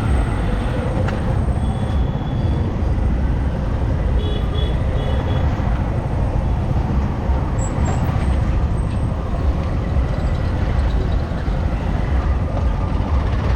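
Steady rush of wind over the microphone mixed with a motorcycle's engine and road noise while riding, strongest in the low end. The bike is a Yamaha R15M with a single-cylinder engine.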